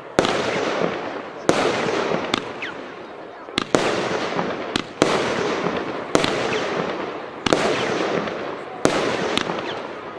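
Argento 'Capri' 13-shot consumer firework battery firing, a sharp bang about every second, each followed by about a second of crackle that dies away.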